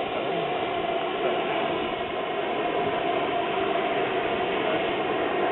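Kerosene-burning turbine engine of a radio-controlled model jet running steadily.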